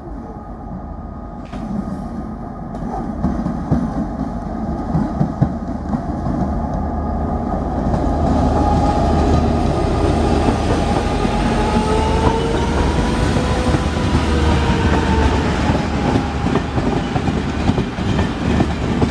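Diesel train running through the station, growing louder over the first few seconds. A steady low drone runs underneath, and a whine rises and falls in pitch about two thirds of the way in.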